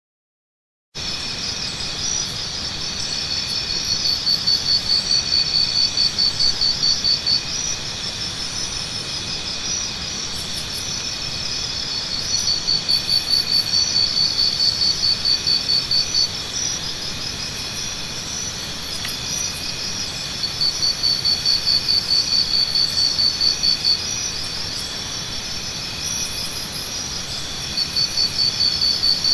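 Jungle morning ambience of insects: a steady high-pitched chorus of trilling insects, with a louder, rapidly pulsing insect call that comes and goes in bouts of three to four seconds, four times. It starts after about a second of silence.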